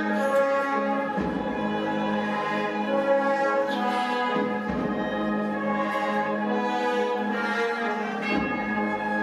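A Semana Santa processional band (agrupación musical) playing a march: brass and cornets hold long chords, with low drum strokes about every three and a half seconds.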